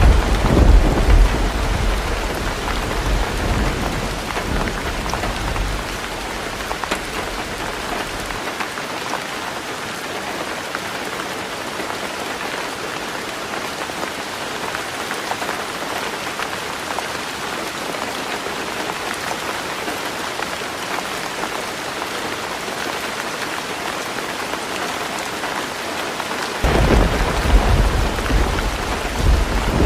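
Heavy rain falling steadily on a tin roof. A low rumble of thunder opens the stretch and fades away over the first eight seconds or so, and another rumble starts suddenly near the end.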